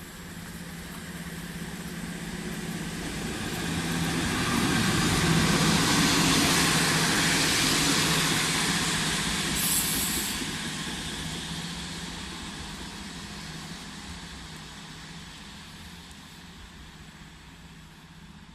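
A train passing by, growing louder to a peak about five seconds in and then slowly fading away, with a brief high hiss about ten seconds in.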